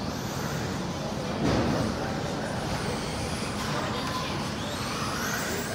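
Race-track ambience: indistinct voices over a steady background noise, with electric RC stadium trucks running on the track.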